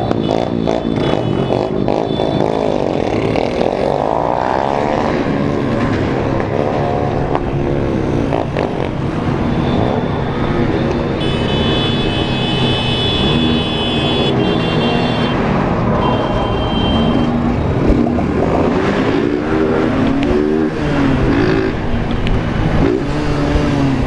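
Many small motorcycle engines running together in a convoy, several revving up and down in pitch at once. A high steady tone sounds for a few seconds about halfway through.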